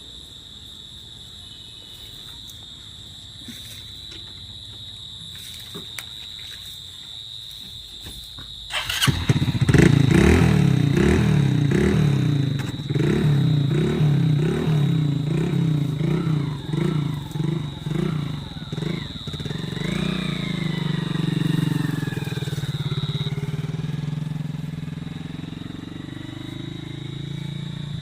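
Motorcycle engine starting about nine seconds in, then revved in quick repeated pulses before settling into a steady run.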